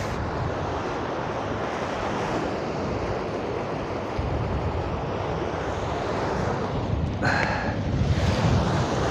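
Steady sea surf with wind buffeting the microphone, the low rumble of the wind strongest.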